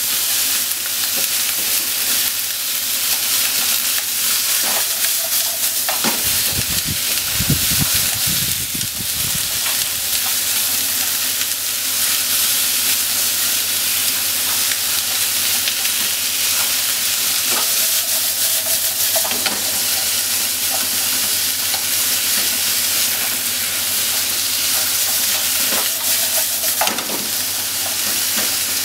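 Sliced pork and onion sizzling in a hot frying pan as a spatula stirs and tosses them, with intermittent scrapes and clacks of the spatula against the pan. A low rumble comes in about six seconds in and lasts a few seconds.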